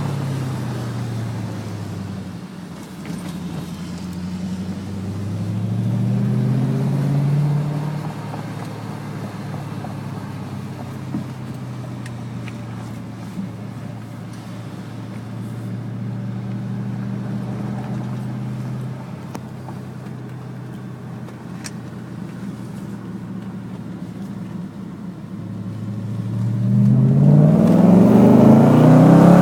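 2006 Audi S4 (B7) 4.2-litre V8 with custom 2.5-inch downpipes and a Milltek exhaust, heard from outside the car. Revs drop at the start, rise briefly, then hold steady for a long stretch. Near the end there is a hard rev that climbs steeply and is the loudest part.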